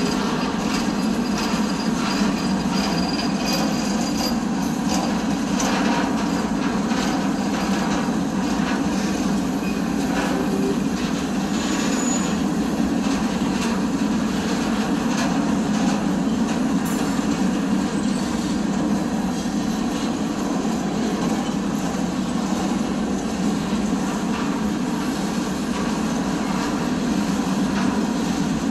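CSX freight train's cars rolling past close by: a steady rumble of steel wheels on the rails that keeps on without a break.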